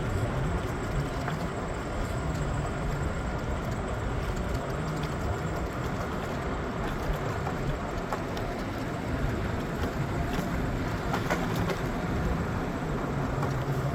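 Steady rumble and rattle of a moving PATH rapid-transit train, running at an even speed with a few light clicks.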